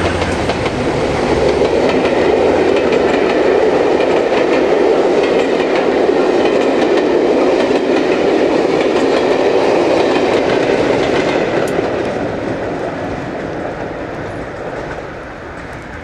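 Train running on the track, the wheels clattering over rail joints, the sound dying away over the last few seconds.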